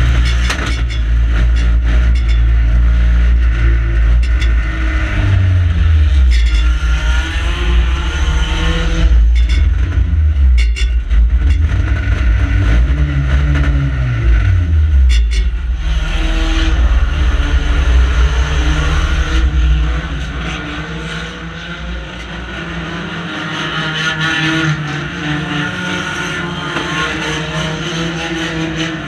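Banger race car's engine heard from inside the stripped cabin, running loud and revving up and down, with several sharp knocks and clunks. About two-thirds of the way through the engine sound drops to a lower, steadier level.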